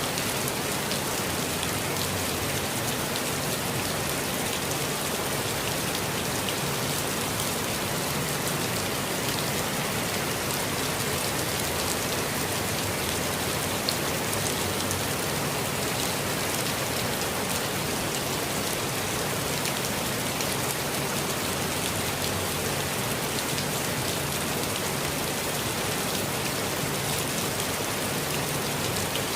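Steady rainfall pattering on leaves and ground, with scattered individual drops ticking through it.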